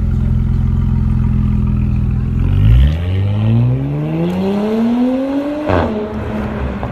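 2018 Audi S5 Sportback's 3.0-litre turbocharged V6 through an AWE Track exhaust, running at a steady low note, then accelerating with the pitch rising smoothly for about three seconds. A single sharp crack comes near the end, followed by a lower steady note.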